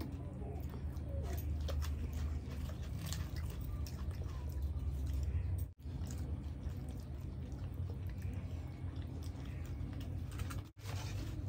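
Close-miked eating of bhature (puffy fried bread) with chickpea curry: chewing and biting with wet mouth sounds, small crunches and many little clicks, over a steady low hum. The sound drops out for an instant about six seconds in.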